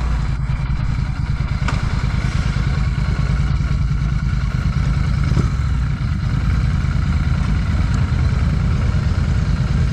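Royal Enfield Classic 650's 648 cc parallel-twin running at a steady low idle through an aftermarket Ngage exhaust, with an even low pulsing beat.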